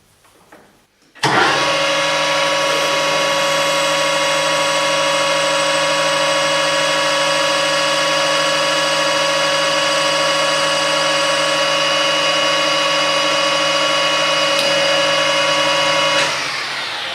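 Metalworking lathe switched on about a second in, its motor and gearing running with a steady whine while a 6 mm drill in the tailstock bores into brass bar; switched off near the end, the pitch falling as it spins down.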